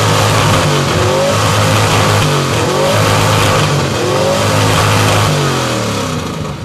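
1967 Ford Ranchero's V8 revved hard through open headers, the pitch climbing and falling several times in repeated blips before it eases off near the end.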